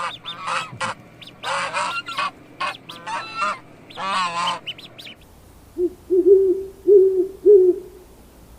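Animal calls: a quick run of short, high calls for about five seconds, then four or five shorter, lower calls in a row.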